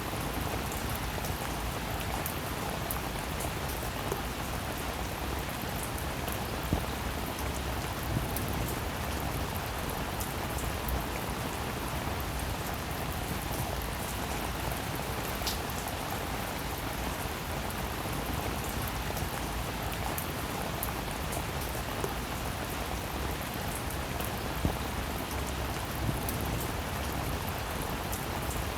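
Steady rain falling, an even wash of patter with individual sharper drop ticks standing out now and then.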